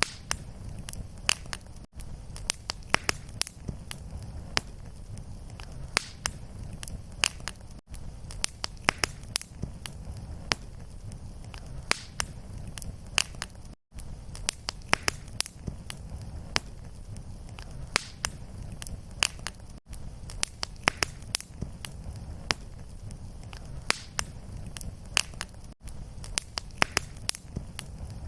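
Fireplace fire crackling: frequent sharp pops and snaps over a low steady rumble. About every six seconds there is a brief drop-out, where the looped recording restarts.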